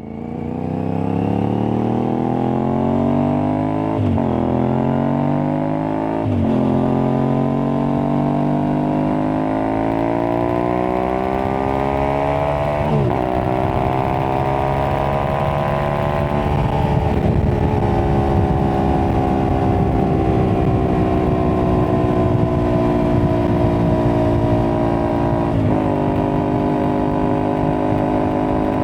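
Aprilia Tuareg 660's parallel-twin engine, breathing through an aftermarket Akrapovic-replica exhaust, accelerating through the gears. Its pitch climbs and drops sharply at three upshifts in the first half, then settles to a steadier cruise with another gear change near the end and road noise underneath.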